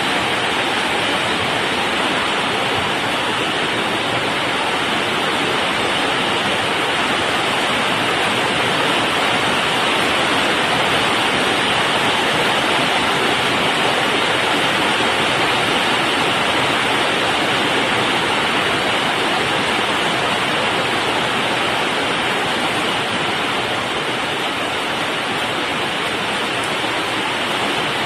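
Heavy rain pouring down in a steady, loud downpour during a summer thunderstorm, an even rushing hiss with no thunder claps.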